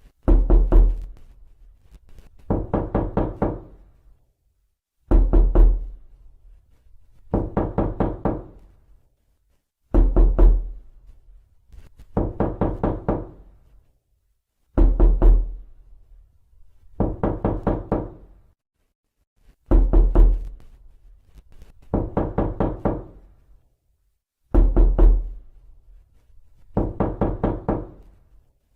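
Rapid knocking on a door, in bursts of several quick knocks. Each burst lasts about a second and a half, and a new burst comes about every two and a half seconds in an even, repeating pattern.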